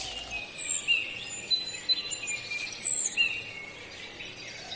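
Faint birdsong: scattered short, high chirps and brief falling whistles, thinning out towards the end.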